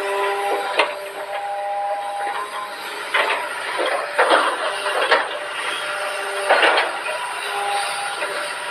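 Excavator at work on pile installation: a steady machine whine that shifts between a few pitches, broken by five short, loud noisy bursts.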